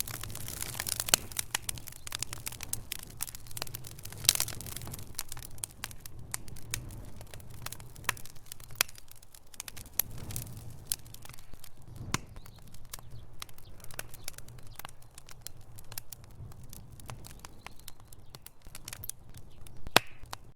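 Wood fire burning logs in a fireplace, crackling and popping irregularly, with a steady low rumble underneath.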